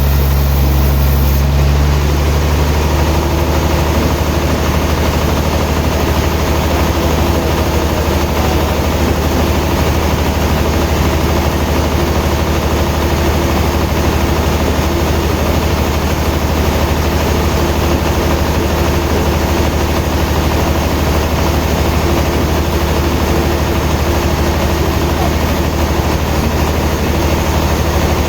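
A sawmill's engine running steadily with a heavy, even drone.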